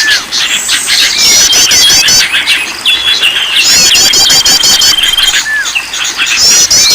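Several songbirds singing and calling at once, as in a bird-lure recording: repeated fast trilled phrases, a steady high rattling trill and short whistled notes overlapping throughout.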